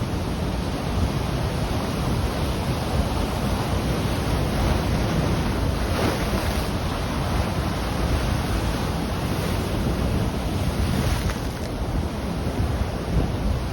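Ocean waves breaking and washing on the shore, with wind buffeting the microphone as a steady low rumble.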